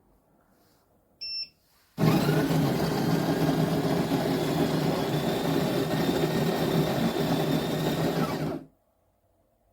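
A short electronic beep, then the Café Affetto espresso machine's built-in bean grinder grinding for about six and a half seconds before stopping abruptly.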